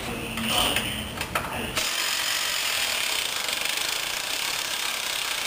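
A power tool starts running about two seconds in and keeps a steady, high-pitched, rapidly pulsing whir, after some clattering shop noise.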